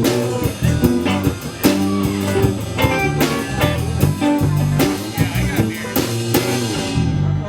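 Live rock band playing an instrumental passage, with guitar and a drum kit keeping a steady beat. The band cuts off near the end.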